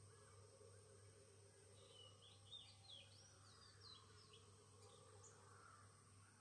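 Faint birdsong: a quick run of high chirps and twittering notes about two seconds in, lasting a few seconds.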